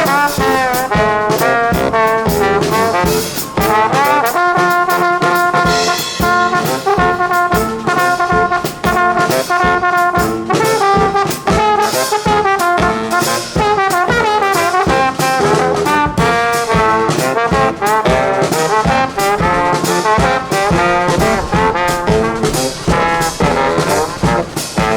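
Brass band playing live: trombones and trumpets carry the tune in sustained notes over a steady drum beat.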